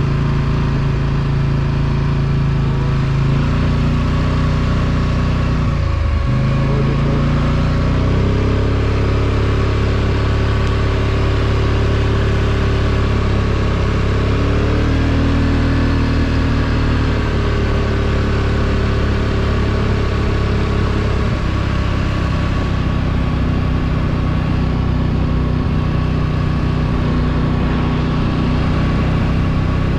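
ATV engine running under way, its pitch stepping up and down as the throttle changes, with a brief sharp drop and recovery about six seconds in.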